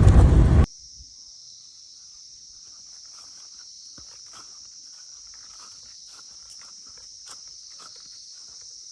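A loud vehicle-like rumble cuts off under a second in. After it come a steady high-pitched insect drone and faint regular footfalls, about two to three a second, with a clip-clop quality like walking hooves.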